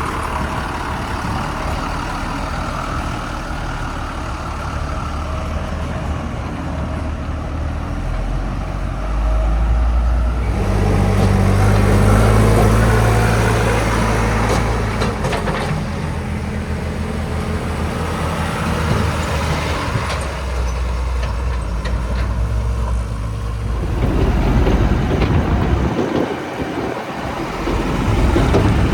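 Kirloskar-engined JCB 3DX backhoe loader's diesel engine running while digging and loading murum. It revs up under hydraulic load about a third of the way in and again near the end, with a few brief knocks between.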